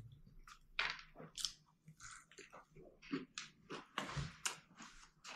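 Quiet chewing of a mouthful of zinger burger (crisp-coated fried chicken fillet in a soft bun), with irregular small crunches.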